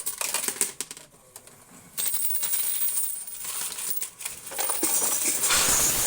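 Coins clattering as they drop inside a coin pusher machine into the house's share. A few separate clinks at first, then from about two seconds in a dense, rattling cascade that grows louder and more continuous near the end.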